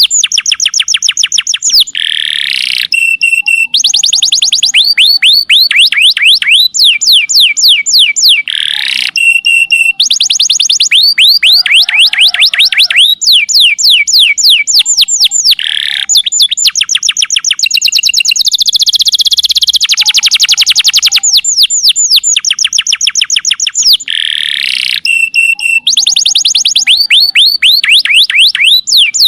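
Domestic canary singing its long 'nembak' song: fast trills of repeated downward-sweeping high notes at about seven a second, in phrases broken by short pauses and a few buzzy rolls.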